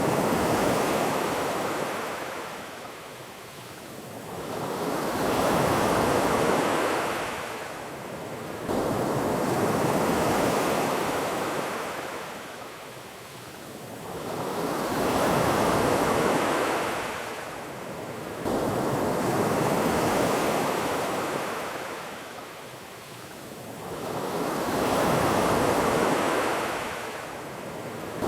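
Ocean waves washing onto a beach and drawing back, swelling and fading in slow surges about every five seconds.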